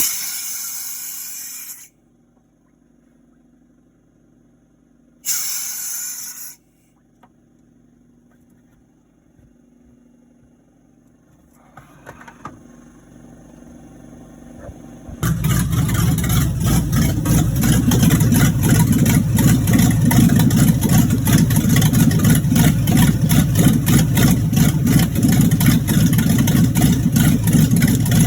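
The 1986 Monte Carlo SS's V8 engine running, then cutting off about two seconds in. After a quiet stretch with one short burst of noise, the engine sound comes back abruptly about halfway through and runs steadily with a fast, even pulsing, in an engine whose bottom end the owner hears knocking from a worn rod bearing.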